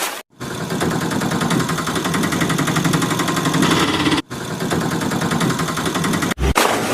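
A motor running steadily with a fast, even rattling pulse, broken by a short cut about four seconds in.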